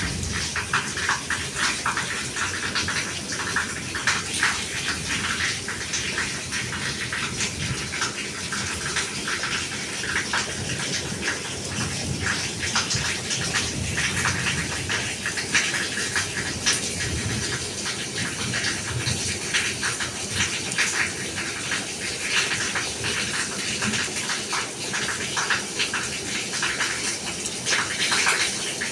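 Steady rain falling, with many small drips and splashes.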